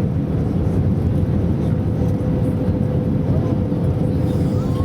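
Steady engine and airflow noise inside the cabin of an Airbus A320 airliner on final approach, with a steady hum underneath.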